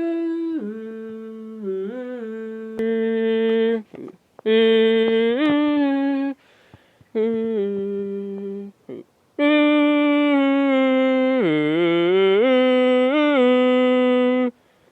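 A person humming a tune in long held notes, with a few short breaks and some sliding pitch changes between notes.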